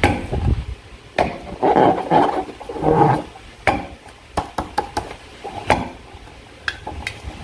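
Slime and balloons being handled and squeezed, with short wet squelching bursts in the first half and a run of sharp clicks and snaps after that.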